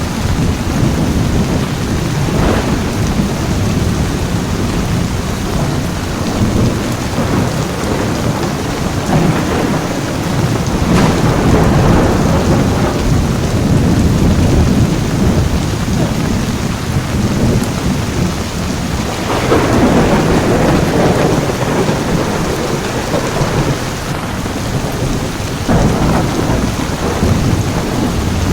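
Heavy rain falling steadily, with thunder rolling in several times over it; the longest and loudest roll comes about two-thirds of the way through.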